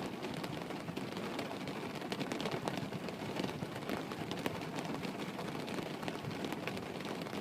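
Steady rain falling, a constant wash of noise with many small scattered drop ticks.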